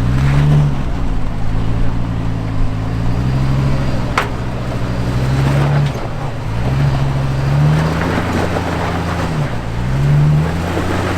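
Off-road truck engine revving up and dropping back again and again, about five times, as it works up a rocky hill climb. A single sharp knock about four seconds in.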